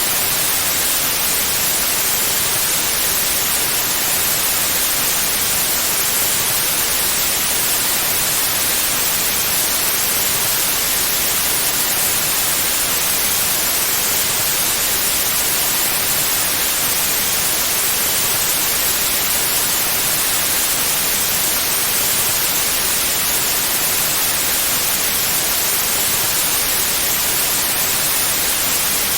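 Steady white noise: an even, unchanging hiss spread across the whole range, strongest in the highs.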